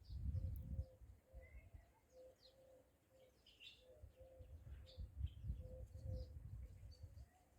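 Birds chirping in short high notes, with a steady run of short, low, repeated cooing notes throughout. A low rumble swells near the start and again a few seconds later.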